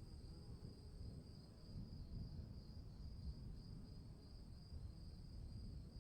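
Crickets chirping in a steady, high-pitched pulsing chorus, over a faint low rumbling noise.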